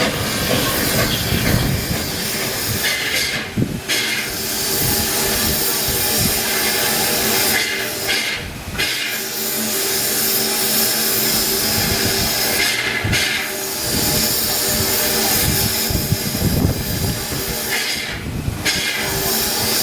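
Steam locomotive hissing steadily, with a low irregular rumble underneath; the hiss breaks off briefly four times, every four to five seconds.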